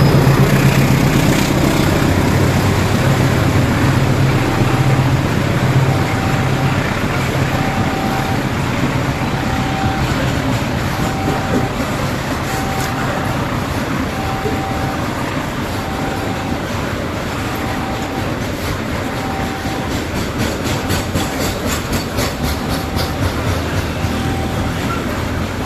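A train passing, with a steady low hum at first, then the wheels clicking over rail joints in a quick rhythm from about halfway. A short tone repeats about every second and a half from a few seconds in.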